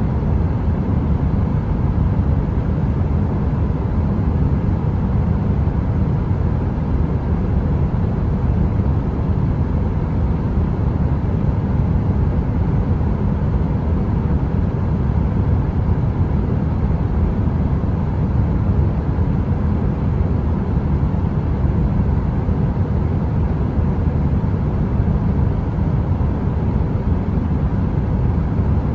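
Space heater running with a steady, low rumbling rush like brown noise, with a faint steady hum. There are no crackles or changes.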